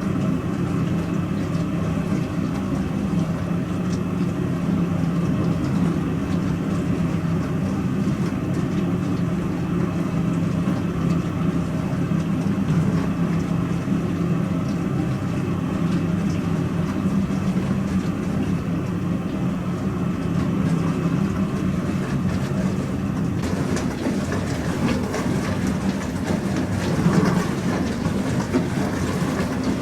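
Pro Action PRSLG96W slimline dishwasher running a cycle: a steady motor hum under a rushing wash noise, which gets louder and brighter about three-quarters of the way in.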